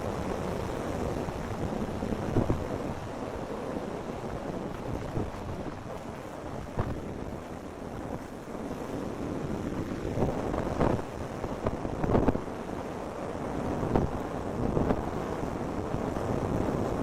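Hurricane winds buffeting the microphone: a steady rush of wind noise broken by several sudden louder gusts, most of them in the second half.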